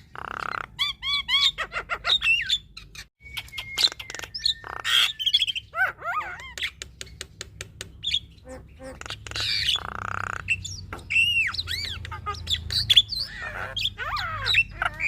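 Female Javan myna (white-vented myna) singing non-stop, a busy run of harsh squawks, rapid clicks and curving whistled notes, with a brief break about three seconds in.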